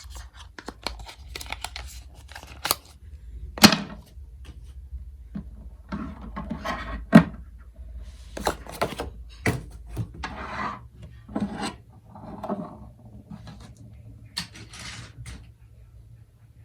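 Hands handling unboxing packaging and parts: rustling with scattered clicks and taps, and two sharper knocks, one about four seconds in and one about seven seconds in.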